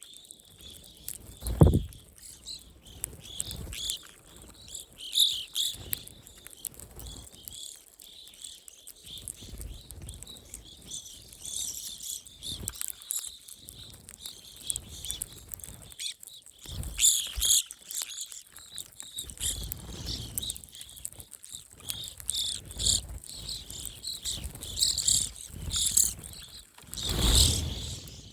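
A flock of evening grosbeaks cracking black oil sunflower seeds, a continuous snap-crackle-pop of small clicks, mixed with the birds' chirping calls. A few low thumps come about two seconds in, around the middle and near the end.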